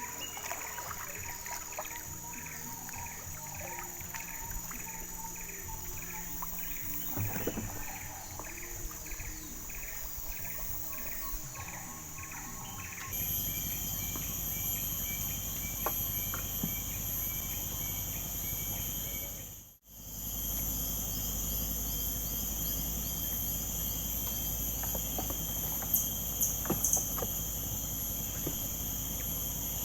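Steady chorus of forest insects with shrill high trilling. For the first dozen seconds a short chirp repeats a little under twice a second over it. Then the sound changes abruptly to a louder, fuller insect drone, with a few light clicks near the end.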